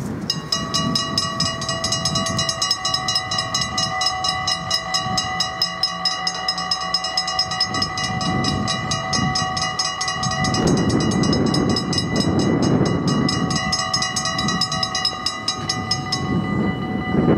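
Dutch level-crossing warning bells start ringing about half a second in: a rapid, even ringing over steady tones. The rapid ringing stops about a second before the tones, which cut off near the end. A low rumble builds in the second half.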